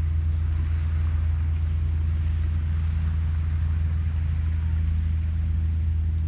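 Small ocean waves washing onto a sandy beach at low tide, a gentle wash that swells and eases, under a loud steady low rumble.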